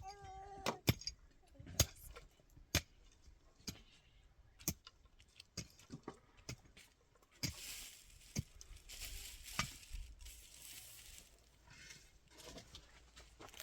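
Irregular sharp taps and knocks, roughly one every second, with a few seconds of scraping or rustling noise in the middle.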